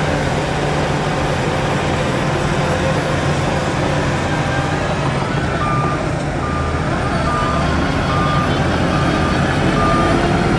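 Heavy diesel earthmoving machinery running steadily with a low rumble. About halfway through, a reversing alarm starts beeping at an even pace, roughly one and a half beeps a second.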